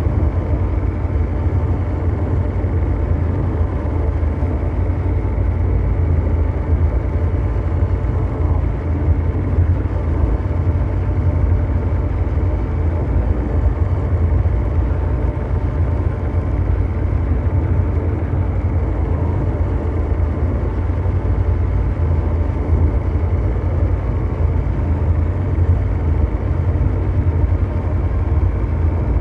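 Steady, deep mechanical drone: a constant low rumble of brown-noise-like hum with a few faint held tones above it, never changing.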